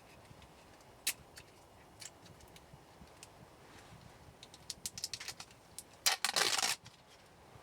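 Burning firewood crackling: scattered sharp pops, a quick run of pops about five seconds in, then a dense burst of crackle lasting under a second near the end.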